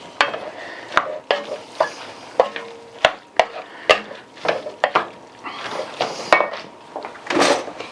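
A pot of chili being stirred on the stove: the utensil knocks against the pot every half second or so, over the scrape of the stirring and a light sizzle.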